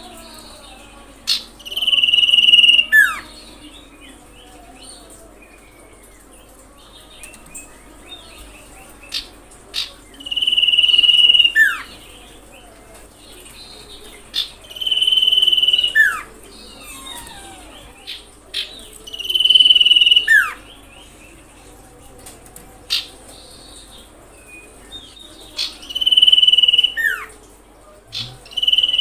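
Common iora calling: a long steady whistle followed by a short note that falls in pitch, repeated about every four to five seconds, with short sharp chips between the calls.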